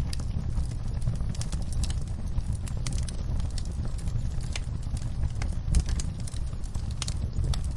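Fire crackling: irregular sharp pops and snaps over a steady low rumble of flame.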